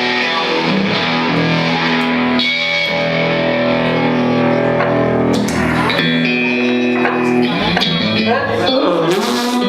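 Garage rock band playing live, led by an electric guitar holding long chords that change every second or two.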